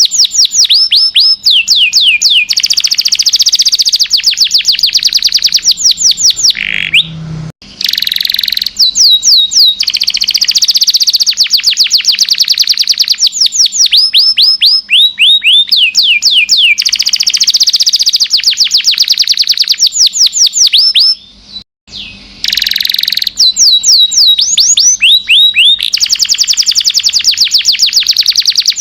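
Domestic canary singing a long, loud song: fast rolling trills alternating with runs of quick downward-sweeping whistled notes, high-pitched, broken by two short pauses about 7 and 21 seconds in.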